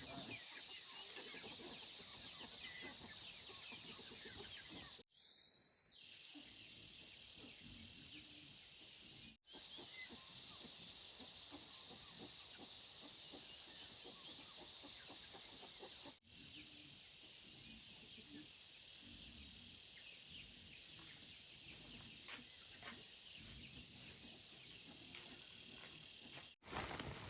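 Chickens clucking quietly over a steady high-pitched insect drone. The sound drops out abruptly a few times.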